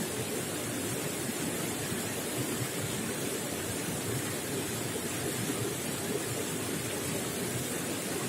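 Running water gurgling and splashing steadily, a continuous rush with no breaks.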